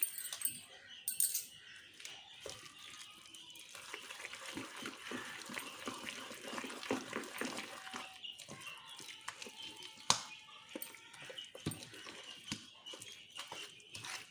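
A spoon stirring idli batter with drumstick leaves in a bowl: irregular wet squelches and scrapes, with a sharp knock of the spoon on the bowl about ten seconds in.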